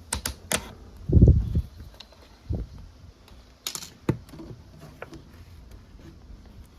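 Workshop handling noises as a fuel-line pinch clamp is released and the fuel drained: a few sharp clicks at the start, a louder dull thump about a second in, then a few scattered knocks and clicks.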